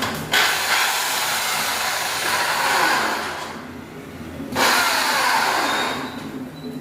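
A power tool's motor runs in two bursts, the first about three seconds long and the second about two, its pitch falling as it winds down after each release.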